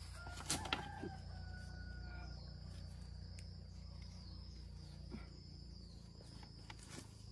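Two sharp knocks about half a second in, followed by a rooster crowing once for about two seconds. Behind them is a steady high insect drone and a low hum.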